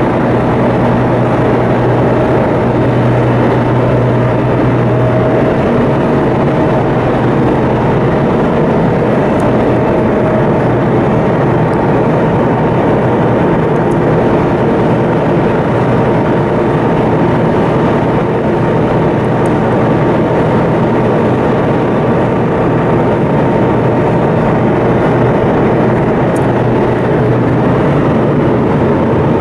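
Coastal cargo ship's engine machinery running steadily under way on sea trial: a loud, constant drone with a steady low hum and fainter higher tones, unchanging throughout.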